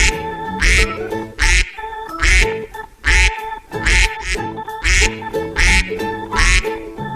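Duck quacking repeatedly over background music that has a steady beat of about one beat a second.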